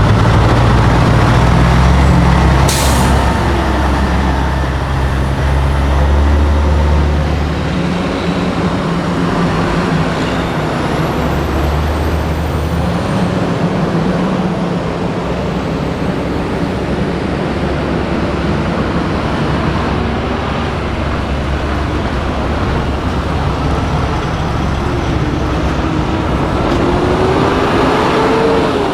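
Diesel semi-truck engines running as the trucks pull away, with a short hiss of air brakes being released about three seconds in. Near the end an engine rises in pitch as a truck accelerates.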